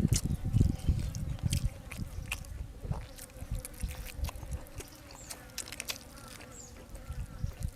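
A person chewing and eating close to the microphone: wet mouth noises and lip smacks with sharp clicks, busiest in the first two seconds and then sparser.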